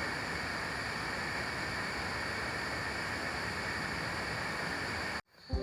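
Steady rushing hiss of rain and river water at a rainy riverside campsite, even and unbroken, cutting off abruptly about five seconds in.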